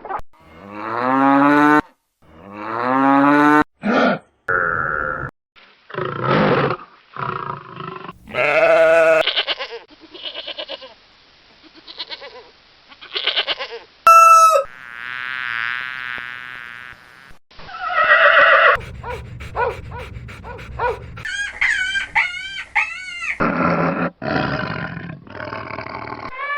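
A string of different animal calls, each a few seconds long and cut abruptly into the next, most of them pitched cries that rise and fall.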